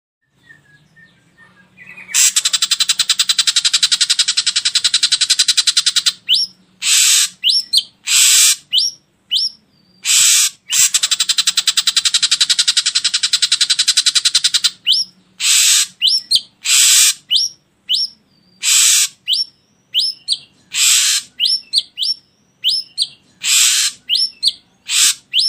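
Ashy drongo calling: two long, harsh rattling calls of about four seconds each, with short sharp notes and quick whistled slurs between and after them. This is a lure recording played to get a kept bird to start singing.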